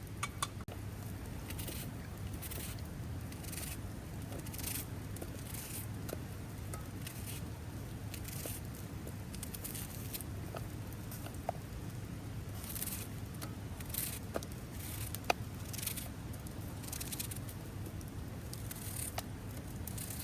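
Irregular soft scraping or rustling strokes, roughly one every half second to a second, with a few light clicks, over a steady low rumble.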